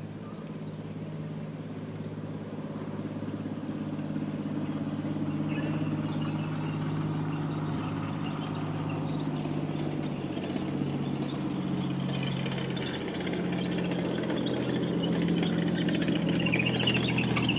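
An engine running steadily at idle, its low hum shifting in pitch a few times, with a hiss growing louder in the second half.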